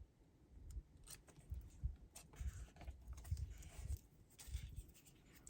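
Faint rustling and light taps of paper strips being picked up and handled on a craft table.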